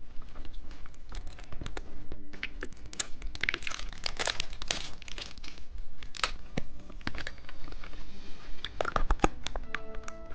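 Plastic candy packaging being crinkled and torn open: a busy run of crackles, rustles and sharp clicks.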